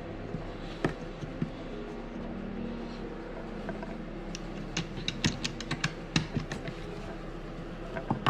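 Scattered light clicks and taps of hand-worked bolt hardware (nuts, washers and tools) as a trolling motor mount is bolted on. The taps come thickest a little past the middle, over a steady low hum.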